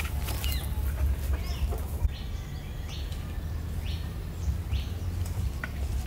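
Birds chirping in short calls, over a steady low rumble and a few sharp clicks.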